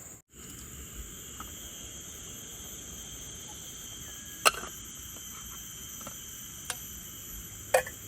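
Steady high-pitched buzzing of an insect chorus, with a few sharp clicks or knocks over it. The loudest click comes about halfway through and another near the end.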